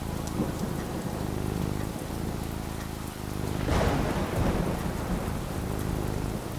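Steady rain falling, with a clap of thunder a little past halfway that breaks into a low rolling rumble.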